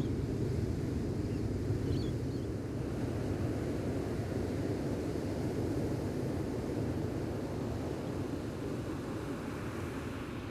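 Gentle ocean surf and wind on the microphone, a steady low rumble, with a couple of faint bird chirps about two seconds in.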